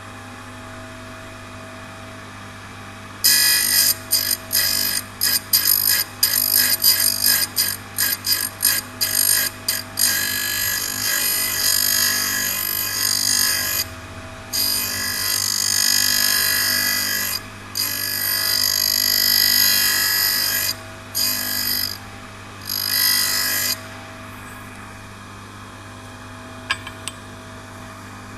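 Turning tool grinder's motor running steadily, with the wheel ground against a lathe turning tool from about 3 s in. The grinding is a loud, high-pitched hiss, first in a quick series of short touches, then in longer passes. It stops about 24 s in, leaving the motor running alone.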